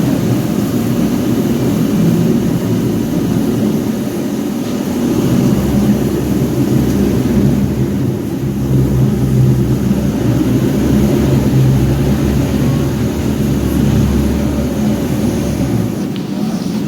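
Passenger boat's engine running steadily with a deep, humming rumble. It grows heavier about five seconds in and eases off near the end, as the boat holds at the dock.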